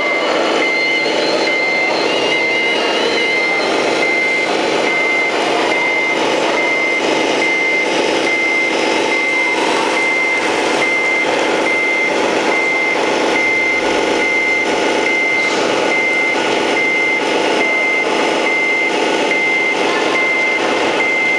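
Tamiya Scania RC model truck's sound unit playing a reversing alarm: a single high beep repeating a little more than once a second, over a steady diesel truck engine running sound.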